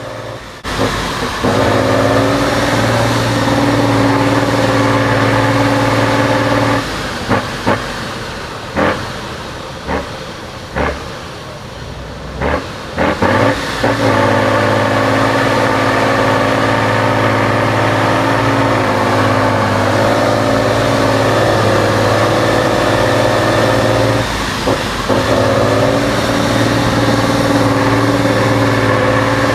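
Off-road mud truck engine running hard at a steady, high pitch. It eases off for several seconds in the middle, when a series of sharp knocks and thumps is heard, then comes back to full throttle.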